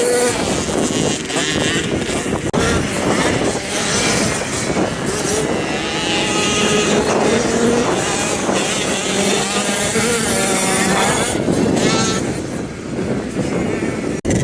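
Motocross bike engines running on the track, their pitch rising and falling as the riders rev.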